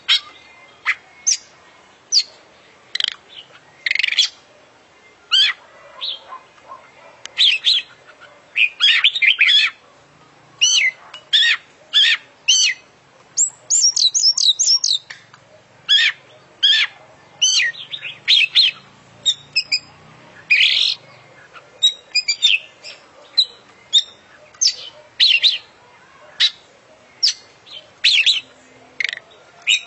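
Oriental magpie-robin (kacer) singing in full voice: a long run of short, high, varied chirped and whistled phrases, one every second or so, packed with calls copied from other birds.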